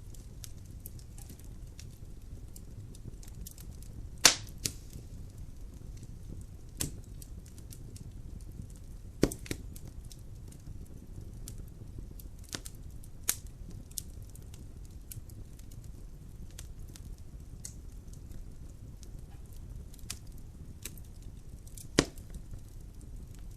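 Wood fire burning in a fireplace: logs crackling with scattered small pops over a low steady rumble of the flames, and a few sharp, louder pops, the loudest about four seconds in, others near nine seconds and near the end.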